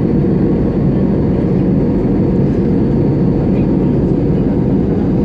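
Steady low roar of a jet airliner's engines and airflow heard from inside the passenger cabin.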